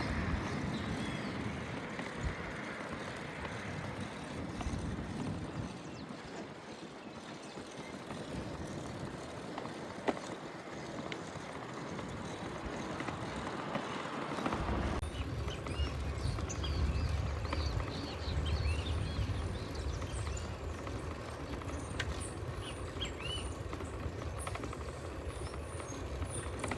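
Outdoor street noise and wind during a city bicycle ride. About halfway through the sound changes abruptly to a low, gusty wind rumble with many short high chirps over it.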